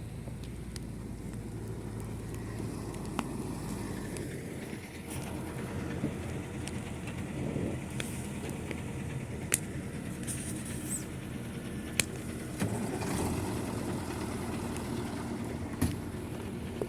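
Heavy vehicle engine running steadily at a logging site, its low hum easing about four seconds in, with several sharp knocks at intervals of a few seconds.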